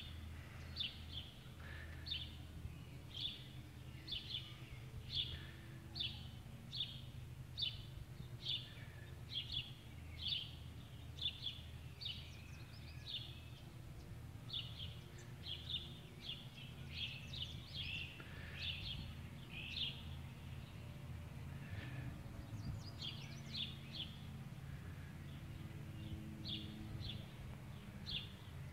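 A small bird chirping over and over, short high notes about twice a second with a few brief pauses, over a low steady hum.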